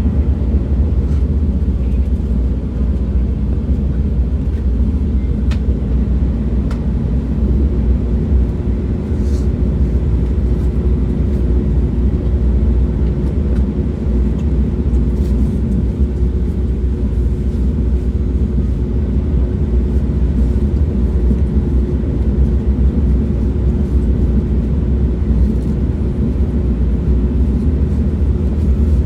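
Train running at speed, a steady low rumble. A faint steady hum joins about seven seconds in, with a few light ticks.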